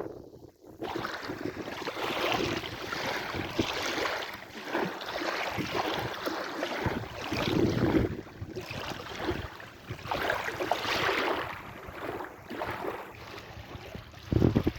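Sea waves washing in and breaking, the noise swelling and easing every few seconds. The sound drops out briefly just under a second in.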